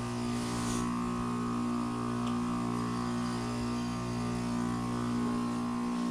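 Goodman GSZ14 heat pump outdoor units running in a defrost cycle: a steady hum from the scroll compressors, made of several fixed tones, with the lowest part dropping away near the end.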